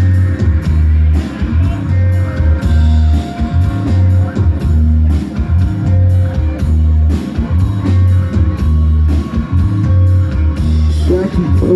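Live rock band playing loud: distorted electric guitars, bass and drum kit in an instrumental passage, with no singing yet.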